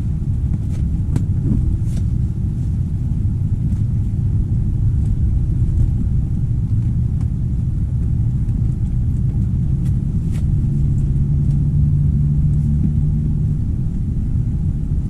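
Strong wind buffeting the microphone makes a steady low rumble, with a few faint clicks.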